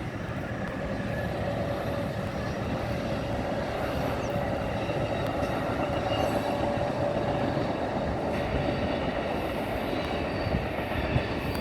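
Train rolling past on the rails: a steady rumble of wheels and cars, with a faint thin squeal running through it.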